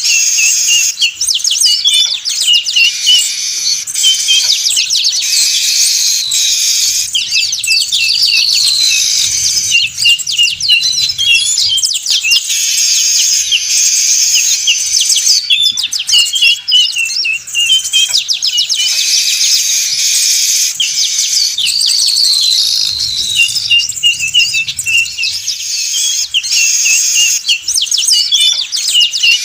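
A flock of weaver birds chattering noisily, with many rapid chirps and trills overlapping without pause.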